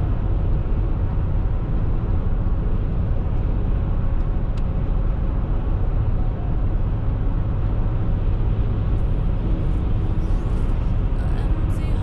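Steady road noise of a vehicle driving on a snowy highway: a constant deep rumble of engine and tyres, with a few faint high ticks coming in over the last few seconds.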